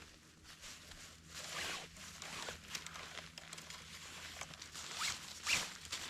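Nylon tent being pitched: several short rasping scrapes of fabric and clips being worked along the frosty tent poles, the loudest about five and a half seconds in.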